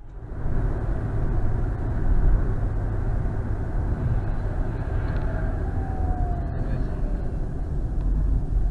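Steady road noise of a car driving: tyre and engine noise.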